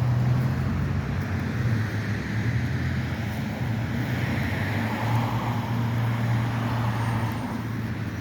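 Road traffic: cars passing on a road, a steady rumble of engines and tyres that swells a little in the middle as vehicles go by.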